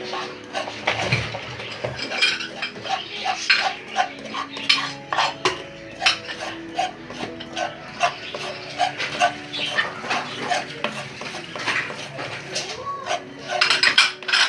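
A spoon clinking and scraping in a bowl with quick, repeated knocks, as food is stirred and mixed.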